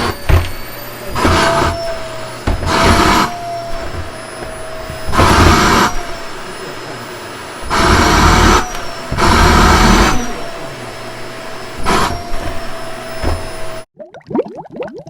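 Vacuum cleaner running: a steady motor whine under a rushing of air that swells loud and falls back about six times, then the machine cuts off abruptly near the end.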